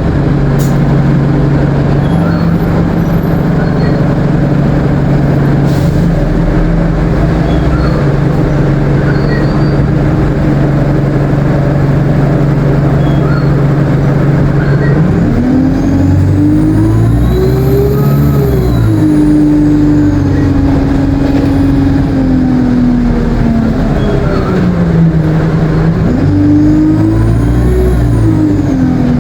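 ADL Enviro 200 bus's diesel engine and Allison automatic gearbox running steadily at first, then twice pulling away, about halfway through and near the end. Each time the engine note rises and falls, with a high turbo whine rising and falling above it.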